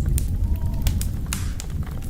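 Wood fire burning in a fireplace: a low steady rumble of flames with scattered sharp crackles and pops, and a brief hiss about one and a half seconds in.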